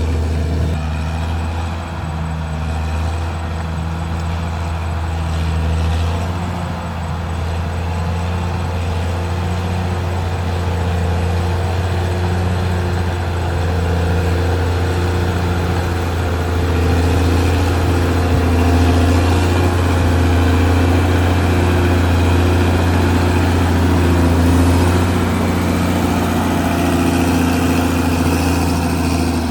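Caterpillar D6R XL bulldozer's diesel engine running steadily with a low drone, its note shifting about six seconds in and rising slightly past halfway as the load changes.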